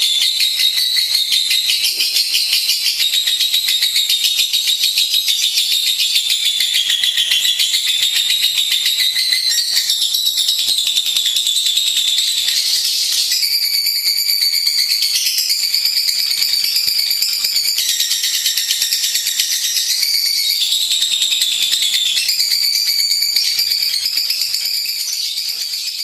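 Lovebird singing one long, unbroken, rapid high-pitched chattering trill, its pitch stepping up and down every few seconds.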